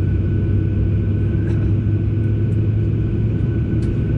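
Steady low drone of a Boeing 737's running engines heard inside the passenger cabin, with a thin steady whine above it and a couple of faint clicks.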